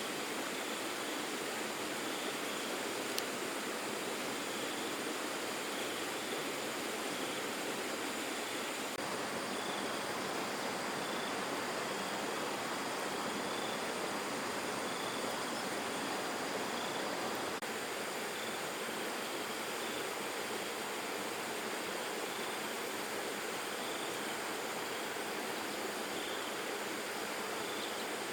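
Steady rushing noise of flowing water, with faint high chirps repeating every second or two.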